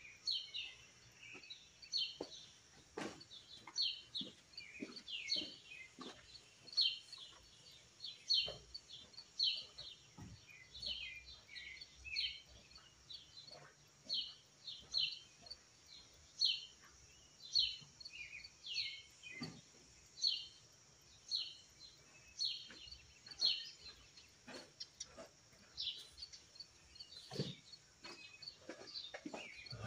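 Small birds chirping, short high chirps repeated every second or so, with a few faint knocks in between.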